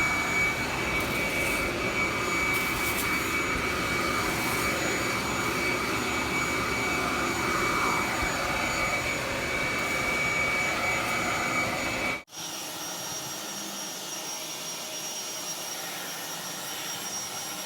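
Leaf blower running steadily, a rushing whoosh with a high whine. About twelve seconds in it cuts abruptly to a quieter stretch of blowing with a higher-pitched whine.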